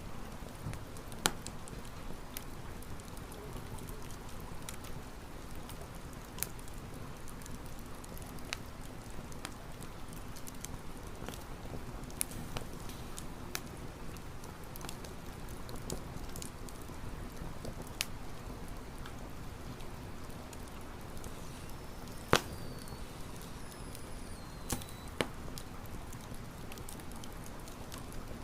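Campfire burning: wood crackling with scattered sharp pops over a steady hiss, the loudest pops about a second in and about two-thirds of the way through, with a couple of faint high whistles shortly after the second one.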